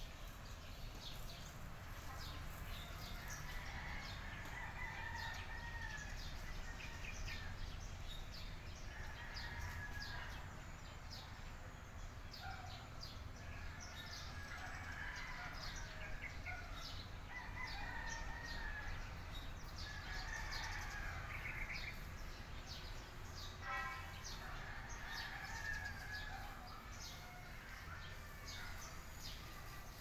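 Birds calling: drawn-out calls a second or two long repeat every few seconds, over a steady patter of short high chirps and a low rumble.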